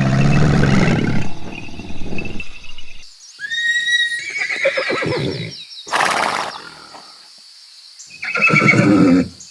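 Horse neighing: several whinnies, each a wavering call that glides in pitch, separated by short pauses.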